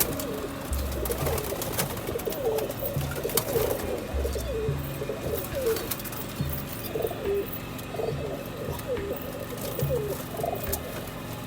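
Many domestic pigeons of Pakistani breeds cooing in a loft. Low coos repeat every second or two over a constant chatter of shorter calls, with a few sharp clicks.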